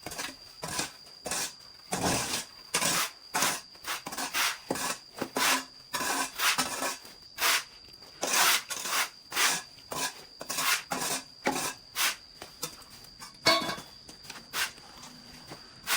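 Hand saw cutting wood in repeated back-and-forth strokes, roughly two a second and somewhat irregular. A steady high-pitched tone runs behind it.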